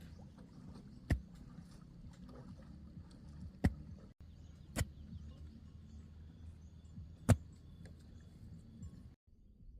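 Four sharp knocks of a tool striking bamboo, irregularly spaced, over a low steady rumble; the sound drops out briefly twice.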